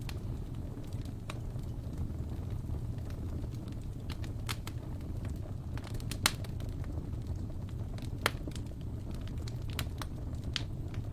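Wood fire burning in a fireplace: a steady low rumble of the flames with irregular sharp crackles and pops, two louder pops about six and eight seconds in.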